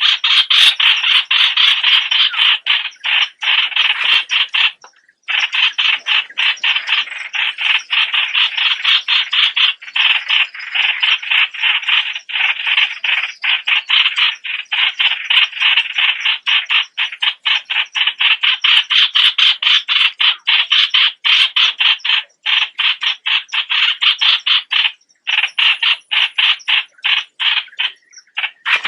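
Streak-eared bulbul calling in a fast, harsh chatter of notes, about four to five a second. The calling goes on almost without pause, with short breaks about five seconds in and again near the end.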